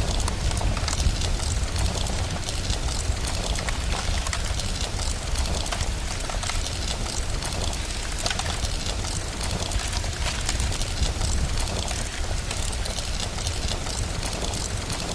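Steady rain ambience mixed with a crackling fireplace: an even wash of rainfall over a continuous low rumble, dotted with many small crackles and pops.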